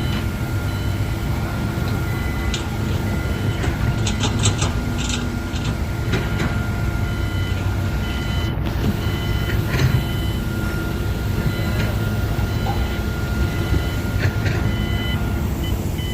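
Construction-site machinery engine running with a steady rumble, while a short high beep repeats at an even pace through the second half, with a few scattered knocks.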